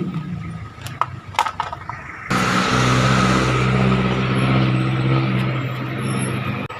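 A few sharp clicks, then about two seconds in an engine starts running loudly at a steady speed and cuts off shortly before the end.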